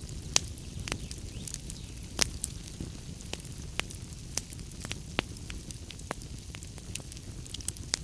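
Wood fire burning in a fireplace: a steady low rumble of flames with irregular sharp crackles and pops from the burning logs, two of them louder, near the start and about two seconds in.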